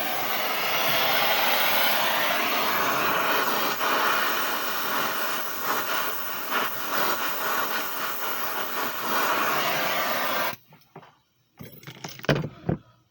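A steady, loud rushing hiss of gas or air that cuts off suddenly about ten and a half seconds in, followed by a few sharp clicks and knocks.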